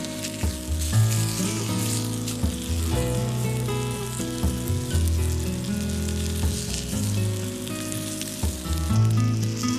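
Food sizzling as it fries, a steady crackling hiss, with background music playing under it.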